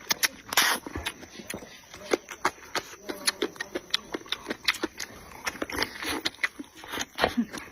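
Close-miked eating noises: wet chewing and lip-smacking in a quick, irregular run of clicks, with a short breathy burst about half a second in.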